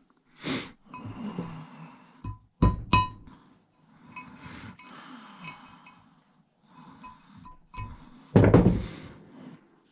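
Knocks and clinks of scrap parts being handled and dropped into piles during a cash register teardown, the loudest knock near the end, with music playing in the background.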